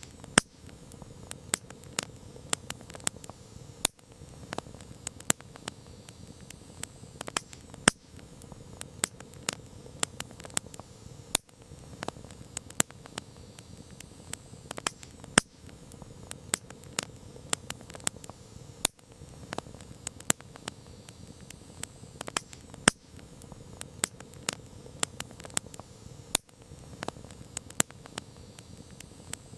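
Campfire crackling: irregular sharp pops and snaps of burning wood, several a second and some much louder, over a steady soft hiss of the flames.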